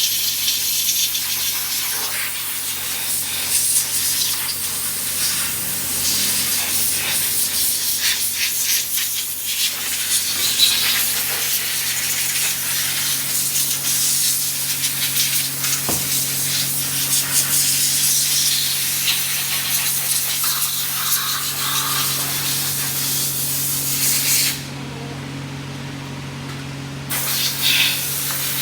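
Steady hissing spray, such as a jet of air or water, over a steady low machine hum; the hiss cuts out for about two seconds near the end while the hum continues.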